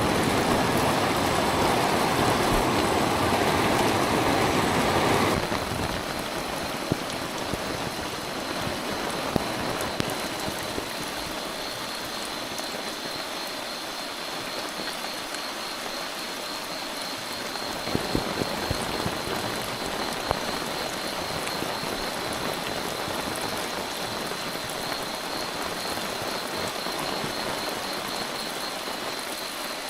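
Heavy rain on a camp shelter, hard enough that the shelter leaks. The rain is louder for the first five seconds, then drops suddenly to a steadier hiss with a few sharp drip taps, a short cluster of them about eighteen seconds in.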